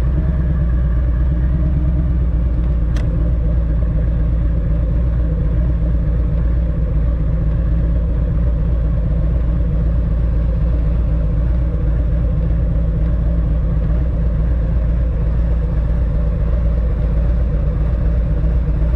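Harley-Davidson Road Glide's V-twin engine running steadily at low speed, with one sharp click about three seconds in.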